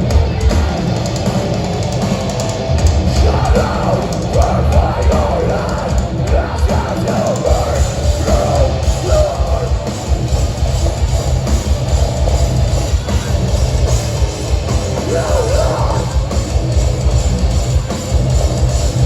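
Metalcore band playing live and loud: heavy distorted guitars over steady, driving drums, with a wavering melodic line rising above the mix now and then.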